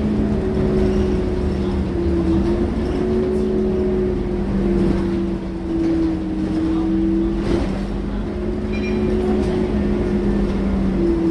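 Scania K230UB city bus's diesel engine and drivetrain running while the bus drives, a steady drone with two held tones that drift slightly up and down in pitch over a low rumble. A brief knock sounds about seven and a half seconds in.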